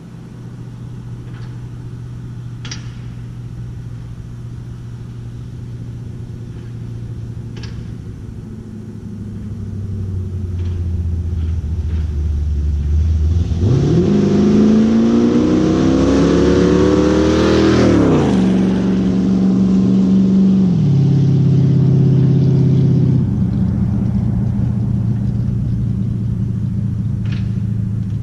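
A 1976 Ford F150's 360 FE V8, breathing through glasspack mufflers, runs at a low steady rumble. From about ten seconds in it grows louder, and about thirteen seconds in it revs up under hard acceleration for some four seconds. The pitch then drops and holds steady, stepping down twice more near the end.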